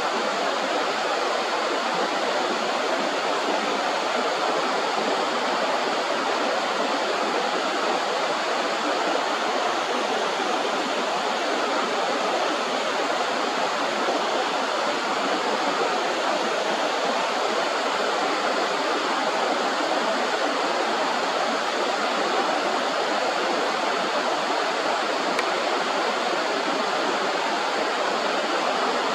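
Steady rush of flowing river water, an even noise with no change or break.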